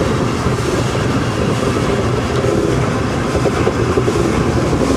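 Train in motion: a steady running rumble with no break.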